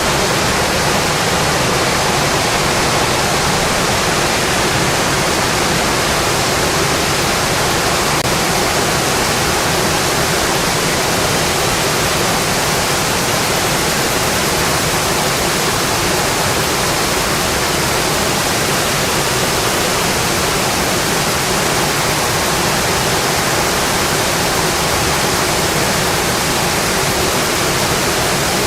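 Heavy rain drumming steadily on a metal roof, a dense even hiss that does not let up.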